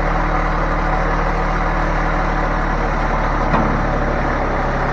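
An engine running steadily at idle, with a single sharp clank about three and a half seconds in.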